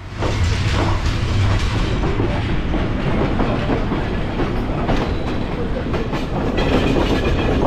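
A passenger train's observation coach running along the track, its wheels clattering steadily on the rails, heard from the rear car of a diesel-hauled train.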